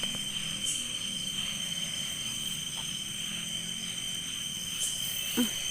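Night insects, crickets among them, trilling steadily at several high pitches at once, with a small click at the start.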